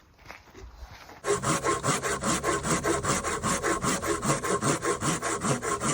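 Hand saw cutting through firewood in fast, regular back-and-forth strokes, starting about a second in.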